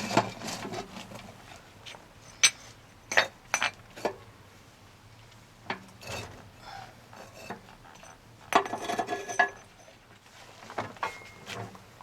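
Scattered clinks and knocks of hard objects being handled, with a denser rattling run about eight and a half seconds in.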